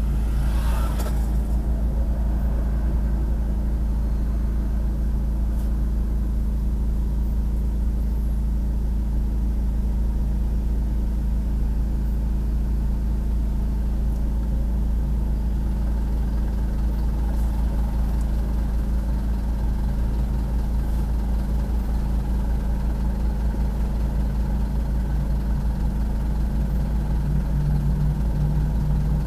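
Car engine idling steadily, heard from inside the car while it stands in traffic, with a brief hiss about a second in.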